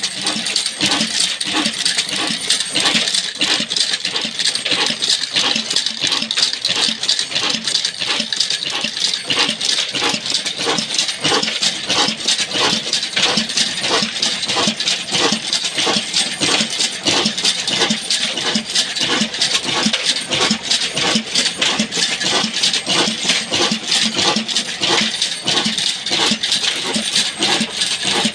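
Old Ruston Hornsby-type diesel engine running steadily, a quick, even metallic clatter beating at a constant rate.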